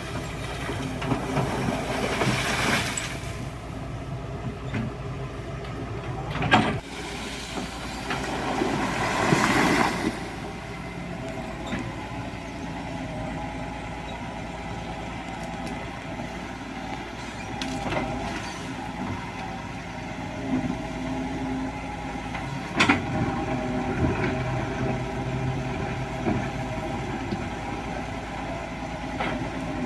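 Hydraulic excavator's diesel engine running steadily, with two longer bursts of scraping and rattling gravel and a few sharp knocks, the loudest about six seconds in.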